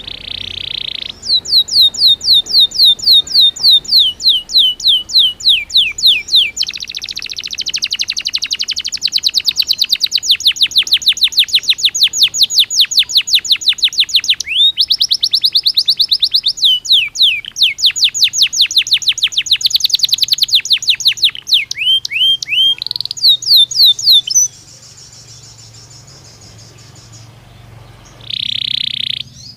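Belgian canary singing a long, loud song of rapid repeated trills and fast falling sweeps. The song breaks off about 24 seconds in, and a short burst follows near the end.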